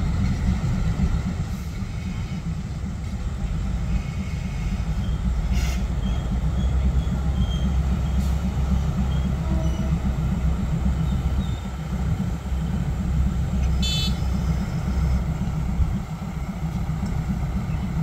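Low, steady rumble of a diesel train, with a brief high-pitched sound about 14 seconds in.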